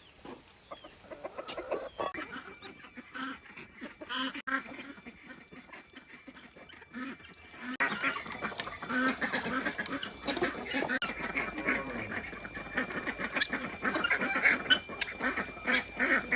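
Farmyard fowl calling over and over, with many calls overlapping and getting louder from about eight seconds in.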